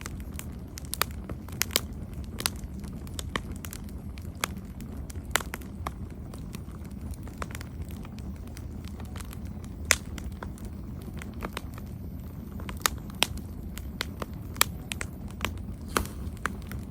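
Campfire burning with a steady low rumble and frequent sharp crackles and pops at irregular intervals.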